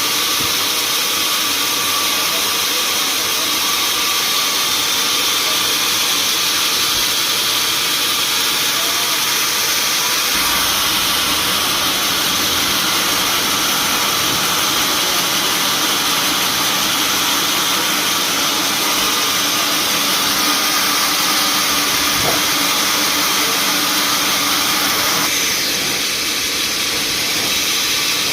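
Sawmill machinery running steadily with a loud, even, high-pitched hiss, easing slightly near the end.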